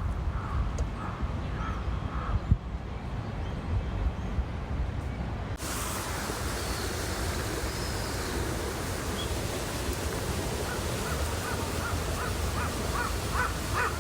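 Park ambience: a bird gives short, crow-like caws a few times at the start, then again in a series that grows louder over the last few seconds. About six seconds in, a steady rushing hiss like falling water cuts in abruptly, over a low steady rumble.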